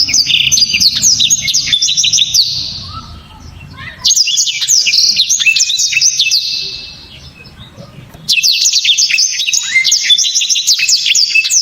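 Blackthroat (black-throated canary) singing: three bursts of rapid, high twittering song, each about three seconds long, with short pauses between.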